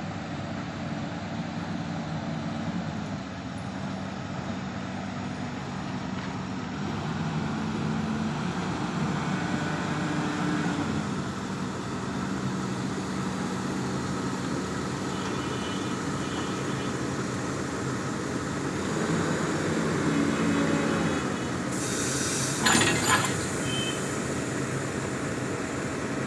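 Engine of a Socofer self-propelled railway relief vehicle running, its pitch rising and falling several times as it is revved and eased off. Toward the end a short, loud hiss cuts in.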